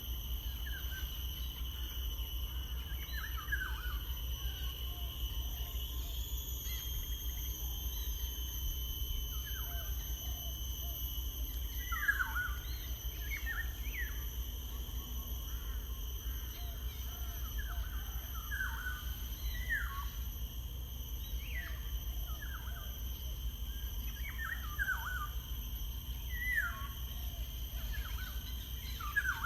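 Birds chirping in short, quick falling notes, scattered irregularly, over a steady high-pitched whine and a low hum.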